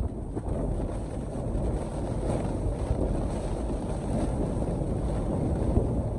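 Strong blizzard wind gusting, a dense low rumble of wind noise buffeting the microphone, swelling and easing without letup.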